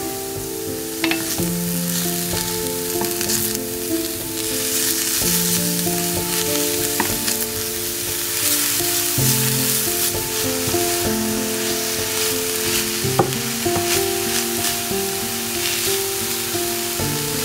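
Shredded cabbage and carrots sizzling in oil in a hot frying pan, stirred and tossed with a wooden spatula, with a few sharp clicks as it strikes the pan. Soft background music of held notes plays underneath.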